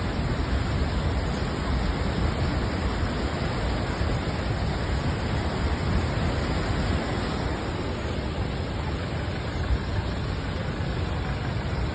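Floodwater rushing: a steady, even roar of water noise that does not change.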